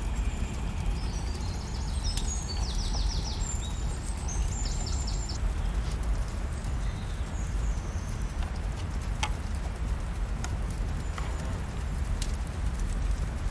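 Small birds singing quick high trills during the first five seconds over a steady low rumble, with a few sharp clicks or taps in the second half.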